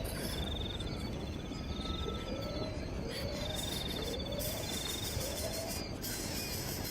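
Animal calls: a rapid, high trill lasting about two seconds, heard twice, with lower rising calls between them over steady low background noise.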